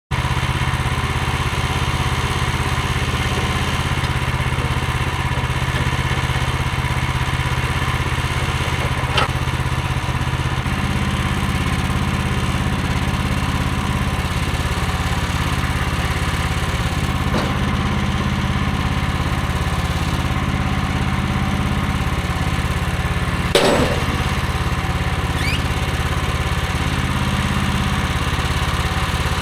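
Band sawmill's gas engine running steadily. Its note changes about ten seconds in, and a few sharp knocks sound over it, the loudest about two-thirds of the way through.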